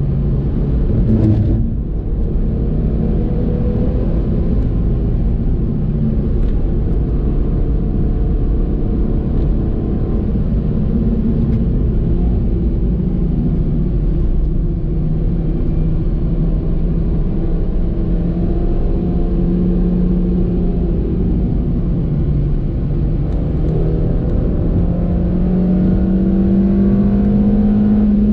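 Suzuki Swift Sport's 1.6-litre four-cylinder engine pulling hard at speed, heard from onboard the car over road and wind noise. The engine note dips briefly about a second and a half in, then holds and climbs slowly toward the end.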